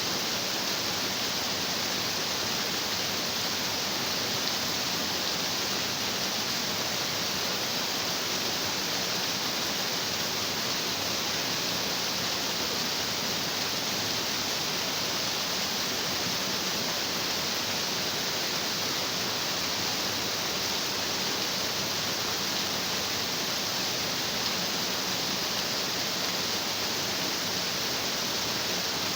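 Stream water rushing over rocks, a steady, even rush of noise with no change.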